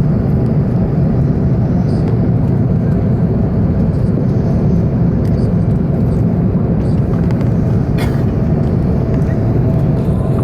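Steady cabin roar inside an Airbus A380's upper deck in flight: engine and airflow noise with a faint steady tone, and one brief click about eight seconds in.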